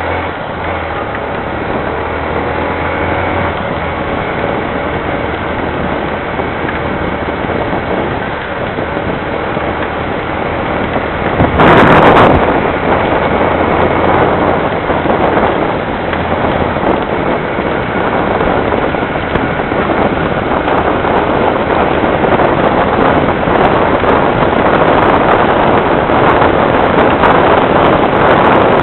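Heavy rain pouring steadily, getting louder after a brief loud rush about twelve seconds in. A low engine hum sits underneath in the first part.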